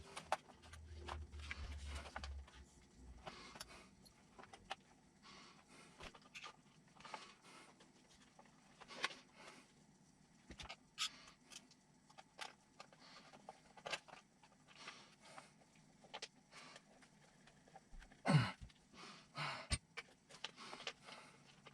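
Quiet, scattered clicks, taps and light scrapes of small parts and tools being handled at the workbench, as plastic is trimmed to fit the servo. A louder knock or rustle comes about 18 seconds in.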